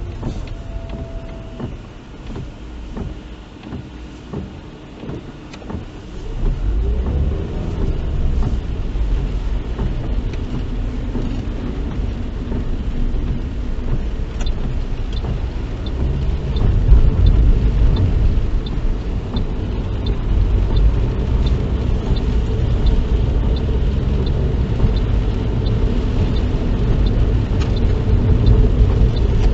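Inside a moving car: engine and tyre rumble, which gets clearly louder about six seconds in as the car picks up speed. Later on there is a faint regular ticking.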